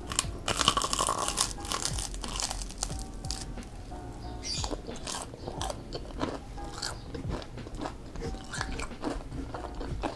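A close-miked bite into crispy fried tempeh, with a loud crunch about half a second in, followed by repeated crunchy chewing.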